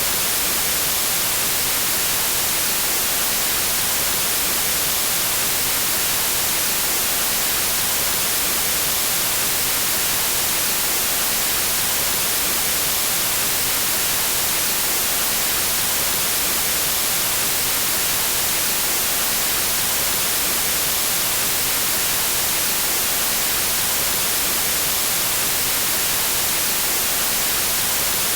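Pure white noise: a steady, unchanging hiss across the whole range, bright and strongest in the highs.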